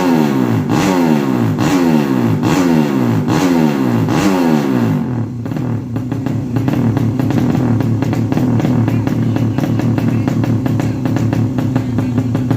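Drag-racing motorcycle engine blipping its throttle over and over, about one rev every second, each rev falling away before the next, then settling into a steady drone about five seconds in.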